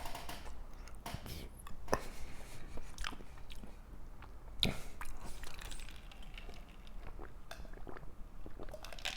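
Close-miked chewing of corn chips and stew: irregular crisp crunches and wet mouth sounds.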